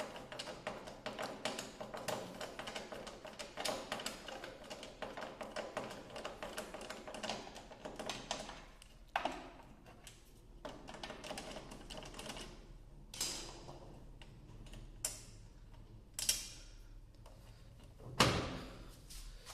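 Hand work on machine parts: rapid clicking and rattling for several seconds, then a series of separate knocks and clanks, each with a short ring.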